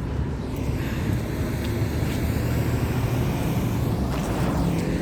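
A motor vehicle's engine running close by, a steady low drone.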